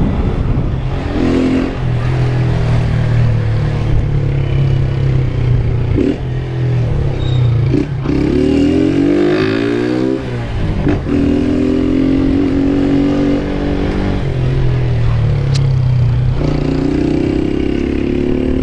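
Honda CG 160 Fan's single-cylinder four-stroke engine running under way, with its pitch climbing under throttle and dropping back at several gear changes.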